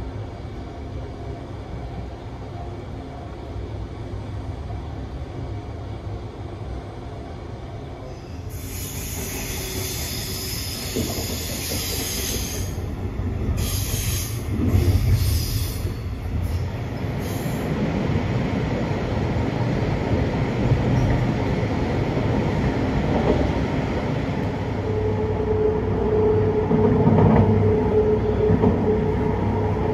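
Passenger train rolling on the rails, heard from inside the couchette car: a steady low rumble, with a high hiss from about eight to eighteen seconds in that breaks off briefly a few times, and a steady whine over the rumble near the end.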